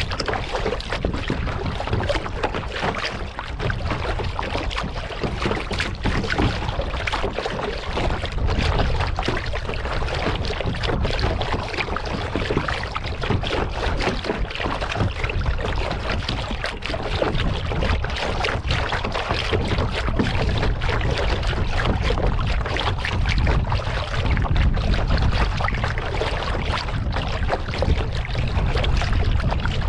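Water splashing and dripping around a kayak as it is paddled, a continuous crackle of small splashes, with a low rumble of wind on the microphone.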